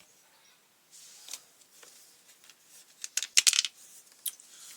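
Small metal parts clinking and clicking on a work surface, with a quick clattering burst about three seconds in and a lighter click after it, as screws and tools are handled while the trimmer's housing is taken apart.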